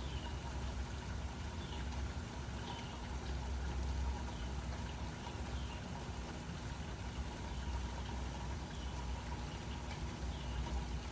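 Steady rainfall: an even hiss of falling rain with a low rumble underneath.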